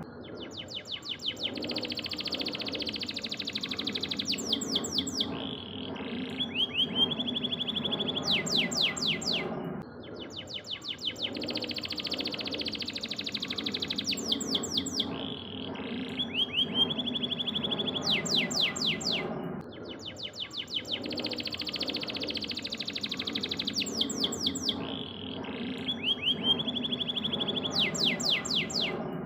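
Canary singing rapid, rolling trills and sweeping whistled notes, the same song phrase repeating about every ten seconds: a 'masteran' training recording for other songbirds to learn from. A steady low background noise runs underneath.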